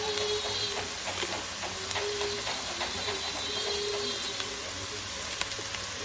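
Onions, celery and carrots sizzling in melted butter in a pan, with a run of quick light clicks of stirring in the first two seconds. A faint steady whine comes and goes over it.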